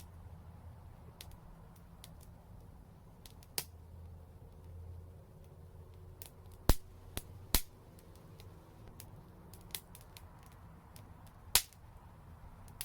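Wood fire crackling in a brick fireplace: scattered small crackles with a few loud, sharp pops, three of them standing out, over a low steady rumble of burning.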